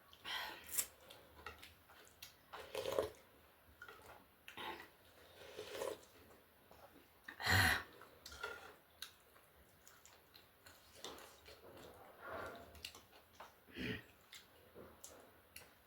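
Close-up eating sounds of a person chewing chicken thukpa and chilli chicken wings: a string of short, irregular mouth noises, the loudest about halfway through.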